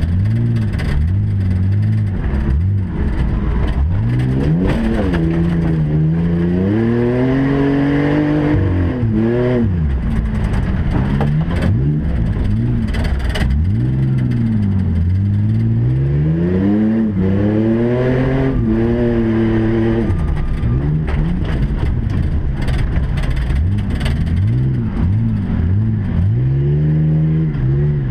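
Several race truck engines running hard together, their pitch rising and falling over and over as they rev up and ease off around the track.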